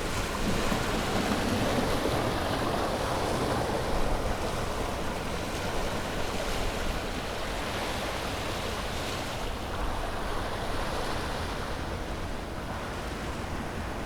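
Sea waves breaking and washing on a shore: a steady rushing surf that swells in the first seconds and eases off toward the end.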